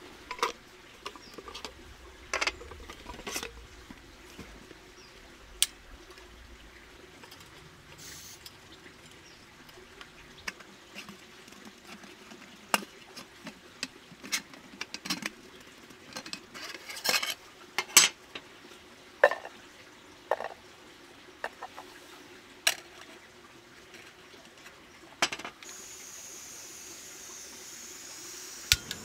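Irregular clinks, knocks and clatters of camp cookware and utensils being handled, the sharpest knocks about two thirds of the way through, over a faint steady background.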